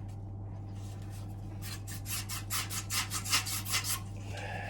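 Quick, even brushing strokes, about five a second, as boiler parts are dusted clean during a service; they start about a second and a half in and stop near the end, over a steady low hum.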